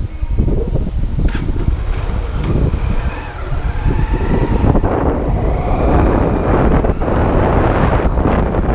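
Motorcycle riding along the road with wind buffeting the microphone, a steady rumble that grows louder and rougher about halfway through.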